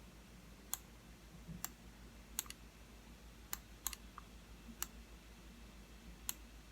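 Computer mouse button clicking, about nine sharp clicks at irregular intervals, some in quick pairs, while answering questions on screen.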